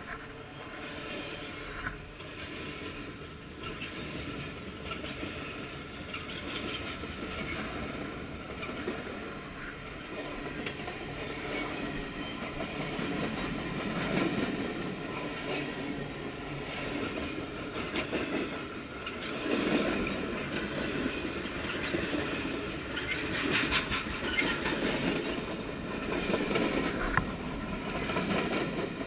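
Freight train cars rolling past at close range, steel wheels rumbling and clacking on the rails. The sound swells louder several times as different cars go by.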